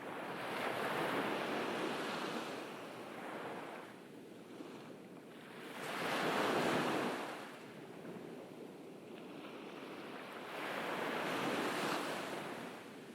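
Ocean waves breaking and washing up a beach, the surf swelling and fading about every five seconds, three waves in all.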